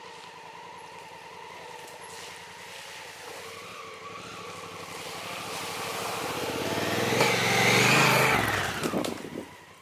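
Honda Africa Twin CRF1000L's parallel-twin engine running at low trail speed, with tyre and trail noise that swells toward about eight seconds in and then fades out near the end.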